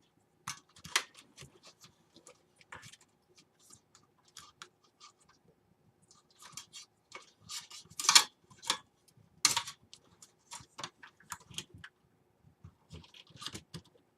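Irregular small clicks, taps and scratches of hands handling plastic cable connectors and parts inside a mini-ITX PC case while hooking up a drive, with two sharper clicks about eight and nine and a half seconds in.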